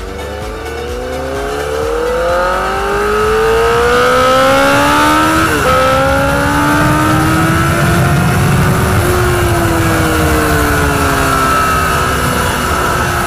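Honda CBR1000RR Fireblade's inline-four engine under hard acceleration: the revs climb for about five seconds, drop sharply at an upshift, climb again, then fall away as the throttle is rolled off near the end, with a steady wind rush underneath.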